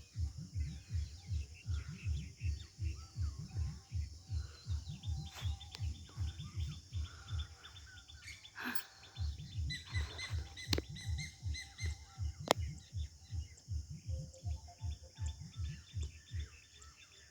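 Birds chirping at dawn over a rhythmic low thumping, about three thumps a second, which pauses briefly about eight seconds in.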